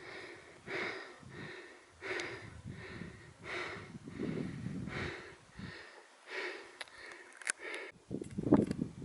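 A climber breathing hard and rhythmically, a loud puff roughly every three-quarters of a second, with a few sharp clicks and crunches near the end.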